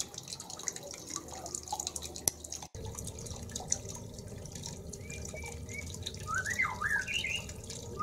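Faint, irregular dripping and ticking. From about five seconds in, a small bird gives a run of quick rising and falling chirps.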